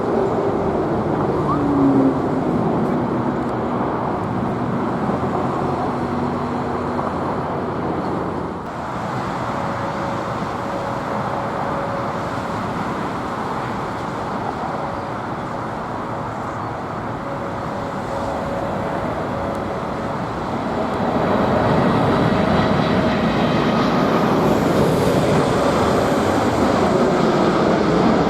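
Boeing 747 jet engines running: a steady rush of noise with faint engine whines, briefly dipping about a third of the way through and growing louder near the end.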